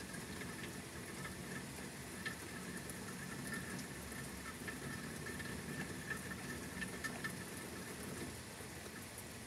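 Steady rain falling during a thunderstorm, an even pattering with scattered drop ticks.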